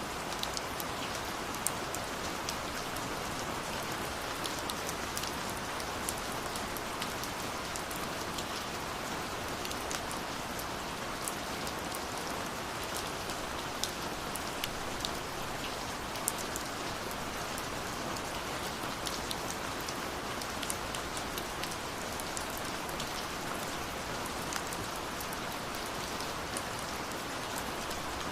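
Steady rushing of falling water, with frequent small sharp crackles and pops of a burning wood fire scattered through it.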